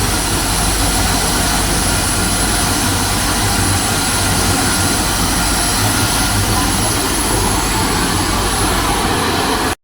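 An aircraft auxiliary power unit, a small gas turbine, running steadily under power. It makes a loud, even roar with a high-pitched whine on top.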